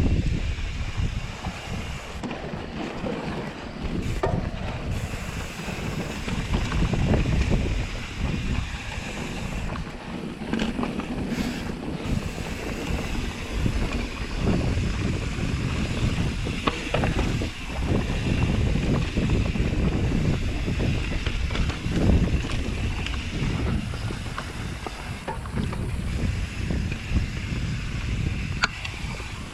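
Wind buffeting the microphone while a mountain bike rolls along a dirt trail: a steady low rumble of wind and tyre noise, broken by scattered short clicks and rattles over bumps.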